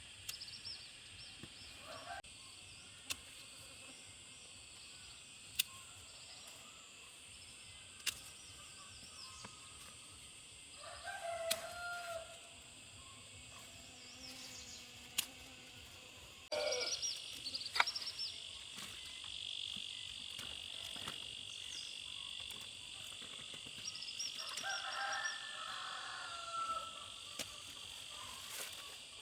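Roosters crowing, once about eleven seconds in and again near the end, over a steady high drone with scattered sharp clicks.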